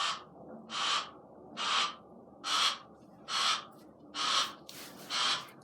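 Barn owl hissing in a steady run of seven breathy hisses, a little under a second apart.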